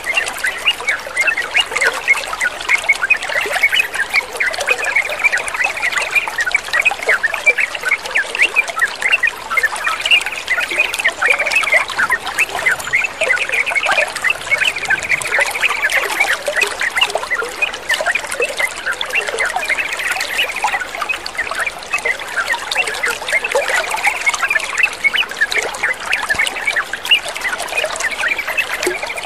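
Water trickling and bubbling in a steady, unbroken stream, with bird calls mixed in.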